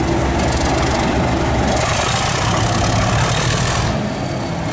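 Bachmann Class 37 model diesel locomotive's ESU sound decoder playing a steady diesel engine sound through the model's small speaker.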